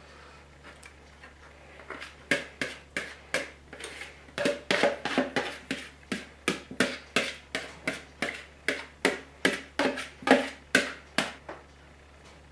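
A spoon knocking and scraping against a mixing bowl while a thick cream-of-mushroom soup, wine and mushroom mixture is scooped out over chicken breasts. The knocks come in a quick run, about two or three a second, starting about two seconds in and stopping shortly before the end.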